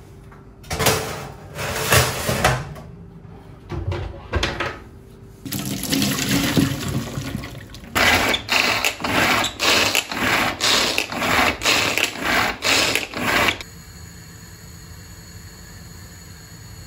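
Water running and splashing in a kitchen sink in uneven bursts, then about a dozen rhythmic strokes, roughly two a second, that stop suddenly.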